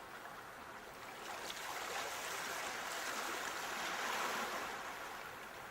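Sea waves: a rush of surf that swells to a peak about four seconds in, then eases off.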